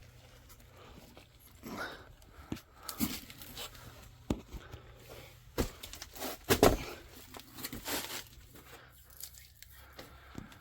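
Irregular footsteps, rustling and scattered knocks of a person making his way down into the crawl space under a house, with the loudest knock about two-thirds of the way through.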